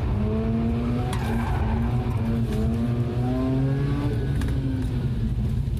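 Mazda RX-8's twin-rotor Renesis rotary engine running hard through a drift, its pitch wavering up and down and dropping near the end, with tyres squealing.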